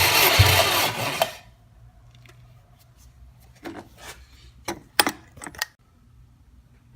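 Subaru EJ205 flat-four engine being turned over with a loud, pulsing churn that stops suddenly about a second in. A few short clicks and knocks follow a couple of seconds later.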